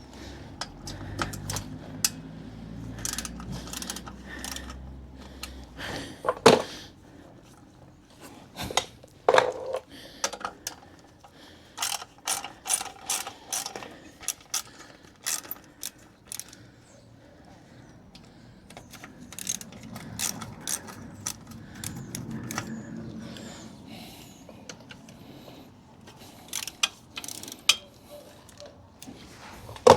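Socket ratchet clicking in short runs, with knocks and clinks of tools, as the bolts holding the motorcycle's stock exhaust end can are undone. A low hum sits under the first few seconds.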